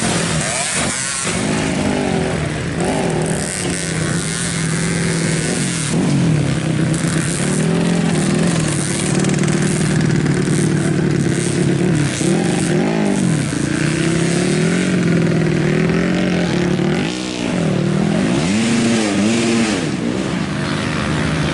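Several racing motorcycle engines running and revving on a circuit, their pitch repeatedly rising and falling as they accelerate, shift and pass, with no break in the noise.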